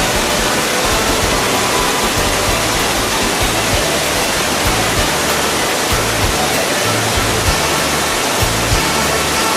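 Steady roar of rushing waterfall water mixed with a background song, its low bass notes changing every half second or so.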